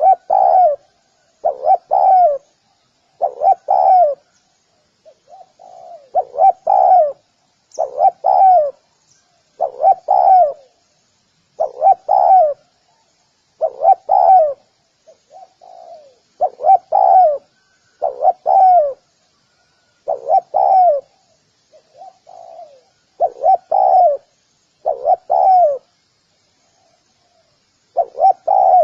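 Spotted dove calling: repeated low, soft coos in phrases of two or three notes about every second or two, with a longer pause near the end.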